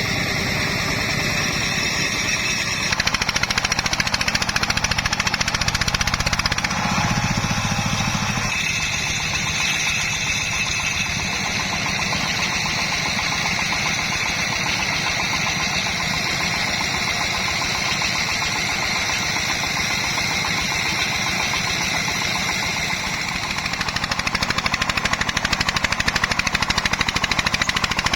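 Single-cylinder diesel engine of a công nông farm truck running with a rapid, even knock. It gets louder about three seconds in and again near the end.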